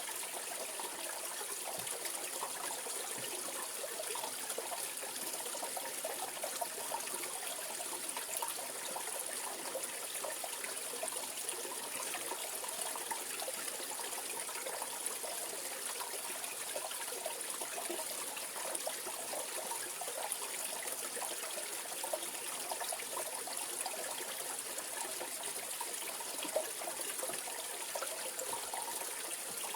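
Mountain valley stream running steadily, an even rush of water with small flickering splashes and no change throughout.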